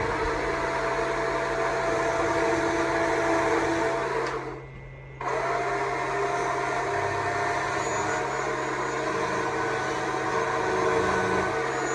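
Stihl MSA 200 C battery chainsaw's electric motor and chain running steadily. About four seconds in it eases off for about a second and then cuts back in abruptly, as the trigger is let go and squeezed again.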